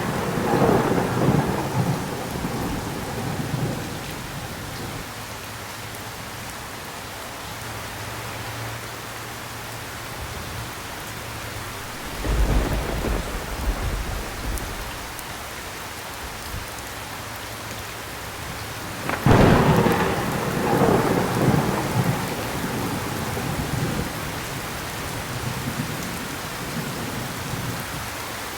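Steady heavy rain with thunder: a rumble dies away over the first few seconds, a deep low rumble rolls in about twelve seconds in, and a sudden loud thunderclap about two-thirds of the way through rumbles away over several seconds.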